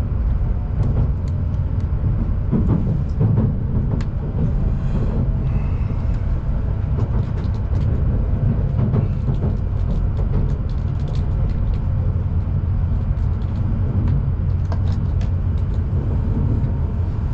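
Shinkansen bullet train running at speed, heard from inside the passenger car: a steady low rumble with scattered light clicks and rattles.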